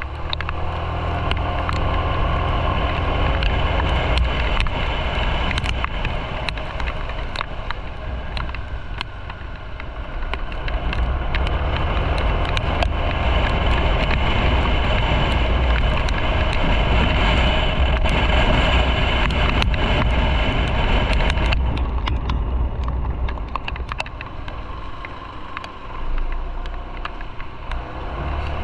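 Motorcycle engine running while riding, with wind rushing over the microphone; the engine level swells and eases a couple of times as the rider works the throttle.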